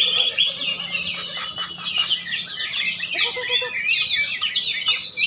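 Many songbirds singing at once: a dense, unbroken chorus of overlapping chirps, whistles and trills.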